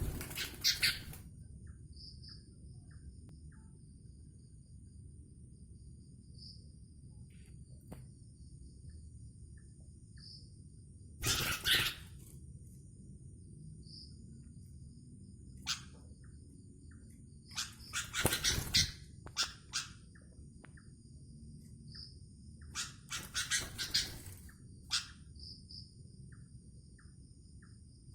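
A captive sooty-headed bulbul makes short, loud, noisy bursts of sound four times. Underneath runs a steady high-pitched chorus of night insects with a faint chirp about every two seconds.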